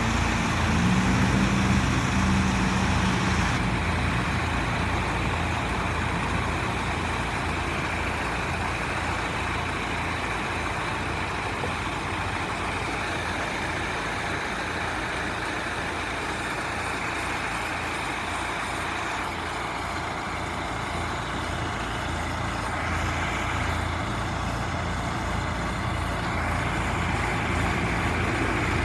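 Vactron vacuum truck running steadily: a low engine throb under a steady noisy rush. A higher hum drops out about three and a half seconds in.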